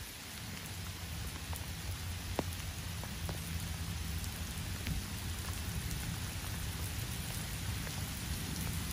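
Heavy rain falling steadily on the harbour water and stone foreshore, a few sharp drop hits standing out, with wind on the microphone adding a low rumble underneath.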